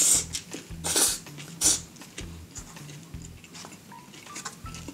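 Close-miked eating sounds of a burger being bitten into and chewed: three loud bites or chews in the first two seconds, then quieter chewing and mouth clicks, over soft background music.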